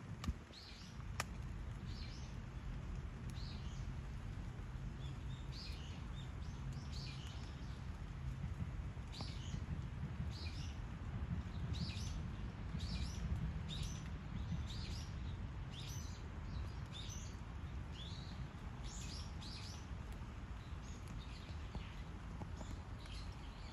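Small birds chirping, short high chirps about one or two a second, over a steady low rumble.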